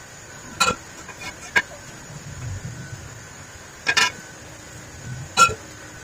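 Four sharp metallic knocks a second or more apart, some ringing briefly: metal parts or tools being struck or handled during work on a motorcycle silencer pipe.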